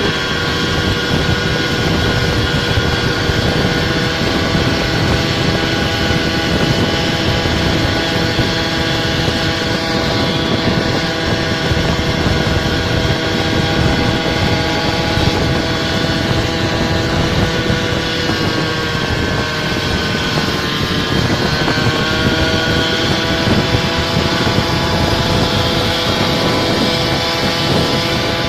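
Small scooter engine running steadily under way, with a rushing noise of road and wind beneath it. About twenty seconds in its pitch dips briefly and then climbs back.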